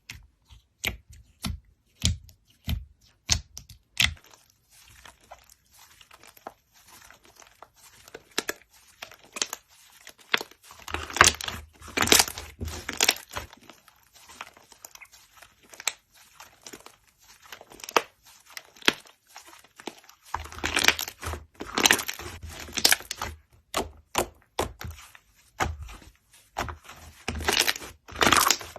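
Slime being squeezed and poked close to the microphone. It starts with sharp clicks about two a second, then turns to denser crackling and popping, with a few louder squishing stretches.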